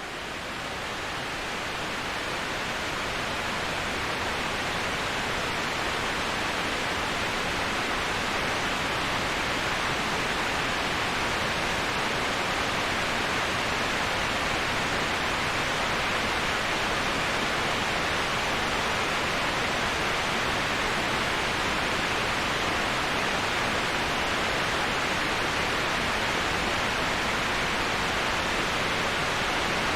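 Waterfall: a steady, even rush of falling water with no breaks or changes. It swells up from nothing over the first few seconds, then holds level.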